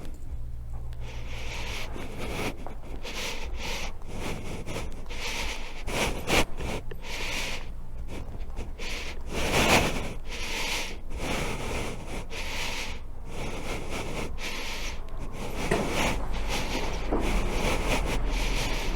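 Irregular rubbing and rustling noise in uneven bursts, with a faint low hum in the first second.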